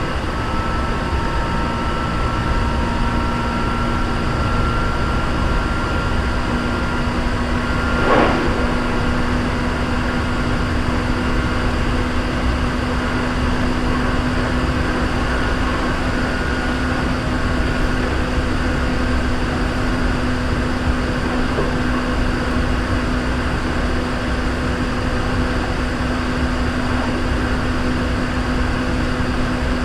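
Hankyu 3300 series electric train running at speed, heard from inside the car: a steady rumble with a constant low hum. A single sharp knock comes about eight seconds in.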